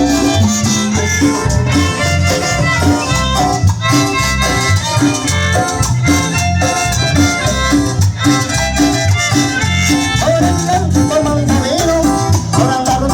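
A chanchona band playing live: a violin melody over a steady dance beat of bass and percussion.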